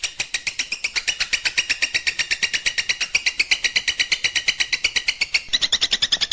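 Long-tailed shrike (cendet) song: a rapid, steady run of sharp, high repeated notes, about ten a second, sagging a little in pitch midway and rising again near the end.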